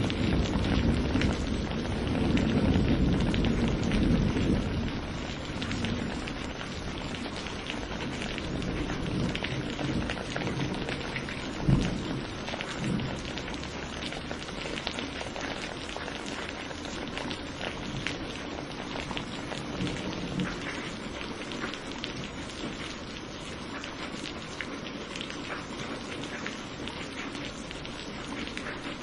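Thunderstorm: steady rain pattering, with thunder rumbling for the first few seconds and fading away. A single brief thump stands out about twelve seconds in, then the rain goes on alone.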